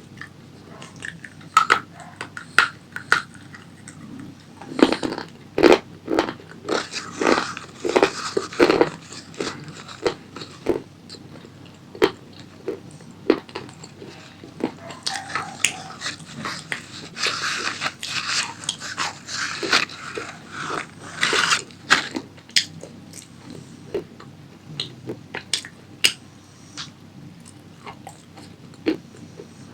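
Close-up crunching and chewing of a crunchy fried tomato pasta snack. There are two long stretches of dense, loud crunching, one about five seconds in and one past the middle, with scattered single crunches between and after.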